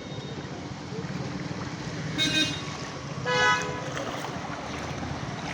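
Vehicle horn sounding over a steady running vehicle: a short double toot about two seconds in, then a louder, longer honk about a second later.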